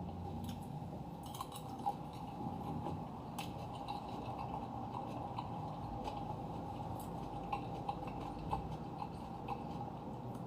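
Quiet eating sounds: scattered faint clicks of cutlery against a plate, over a steady faint tone.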